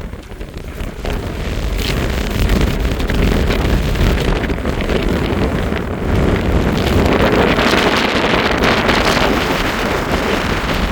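Strong wind buffeting the microphone in gusts forecast at around 50 mph, a loud rushing rumble that builds about a second in and gusts harder again past the middle.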